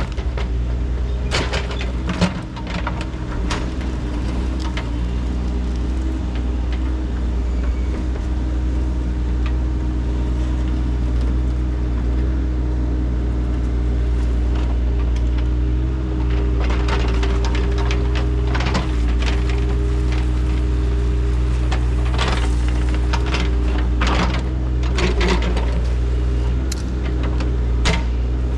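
Engine of an excavating machine running steadily, with scattered knocks and clanks over it.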